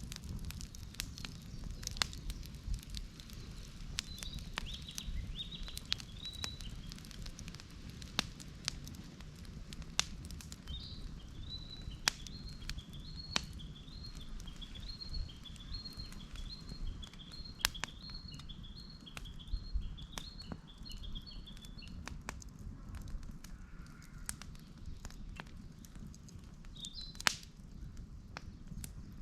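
Wood campfire crackling, with many sharp pops scattered irregularly over a low steady rumble. A run of quick, high chirps sounds in the background through the middle.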